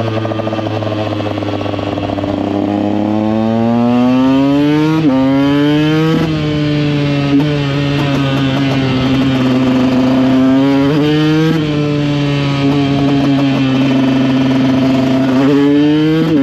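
KTM EXC 125 single-cylinder two-stroke enduro engine pulling under way. It runs steady at first, then climbs in pitch and drops sharply at each gear change, shifting up several times, easing off and picking up again in the middle.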